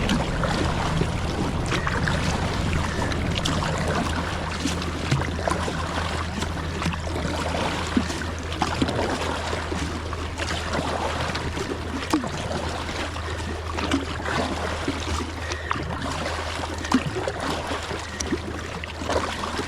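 A kayak being paddled upstream against a strong river current: steady rushing and trickling of water around the hull and paddle, with scattered small splashes and drips from the paddle strokes.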